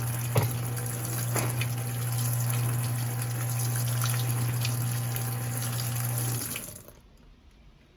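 Electrolux LPE16 washing machine running water, a steady rush with a low electric hum from its pump or valve, with a small knock about half a second in; the water and hum cut off about six and a half seconds in.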